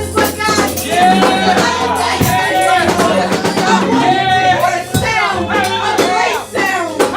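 Live church praise music: singing over sustained bass notes and drum hits.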